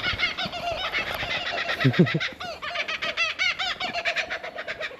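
Two laughing kookaburras calling together in a long run of rapidly repeated chuckling notes, densest in the middle and thinning out near the end.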